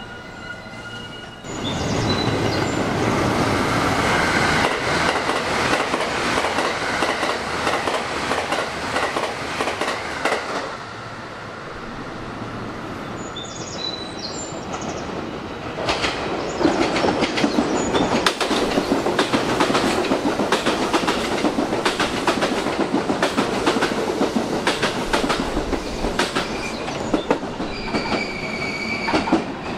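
Electric commuter trains running through the station at speed: a loud rush of wheel and rail noise with rapid clacking over the rail joints, easing off about halfway through before a second train comes through clattering loudly. Near the end a steady high squeal joins in as the train runs alongside the platform.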